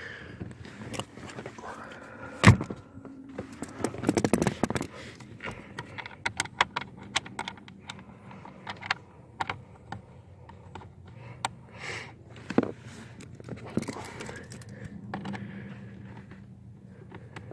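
Hand ratchet with a 5.5 mm socket clicking in short runs as the mounting screws of a new blower motor are driven into plastic, mixed with knocks and rattles of the tool and parts; the loudest knock comes about two and a half seconds in.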